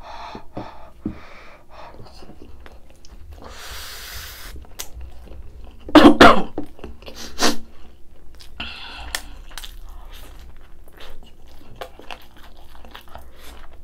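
Close-miked chewing of rice and grilled pork belly, with small wet mouth clicks. About six seconds in comes a loud, sudden cough-like burst from the throat, followed by a smaller one about a second later.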